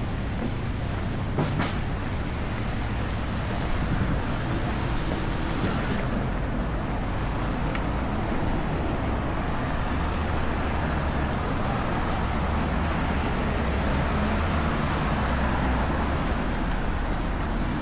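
Traffic on a rainy city street: a steady hiss of rain and wet road noise, with a heavy vehicle's engine running low, strongest in the latter half.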